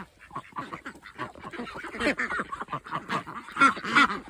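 Domestic waterfowl calling: a busy run of short calls, loudest near the end.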